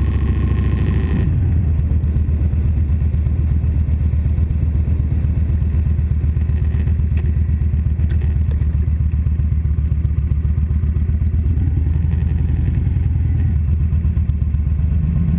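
2012 Victory Vegas 8-Ball's V-twin engine running steadily at low revs as the motorcycle rolls slowly; wind and road noise drop away about a second in, leaving the engine note on its own.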